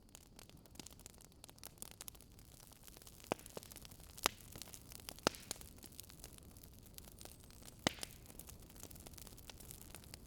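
Campfire wood crackling: irregular sharp pops and ticks over a faint steady hiss and hum, with a few louder pops in the middle.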